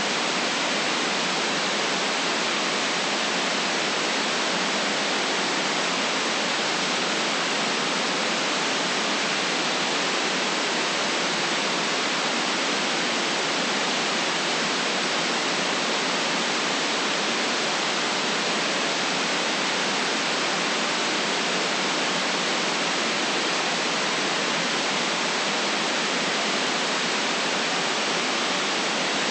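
Steady synthetic white noise: an even, unchanging hiss with no events in it.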